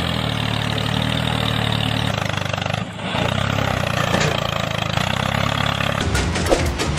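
A tractor engine running steadily at a low pitch, dipping briefly about three seconds in and then picking up again. Near the end it gives way to a faster, rhythmic clatter.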